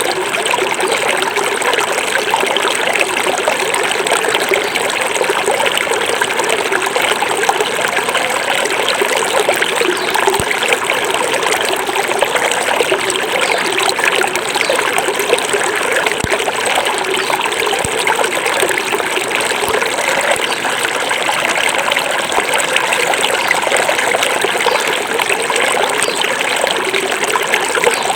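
Small forest river flowing steadily, the water trickling and burbling over stones.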